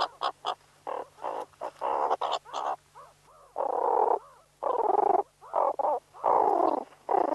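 Meerkat calling: a quick, irregular run of short, harsh calls, about a dozen, some clipped and some held for about half a second.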